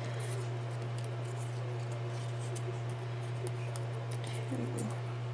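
Light rustling and small clicks of paper and craft supplies being handled, over a steady low electrical hum.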